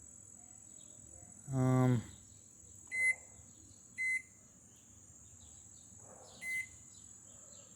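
Microwave oven keypad beeping as the cooking time is entered: three short, even beeps about three, four and six and a half seconds in. A short vocal sound comes about two seconds in, and a faint steady high whine runs underneath.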